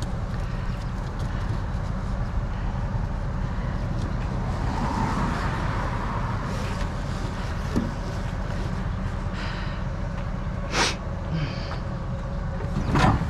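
Steady low rumble of a vehicle, with a single sharp knock about eleven seconds in and a louder clatter of knocks near the end, as items are shifted in and around a truck.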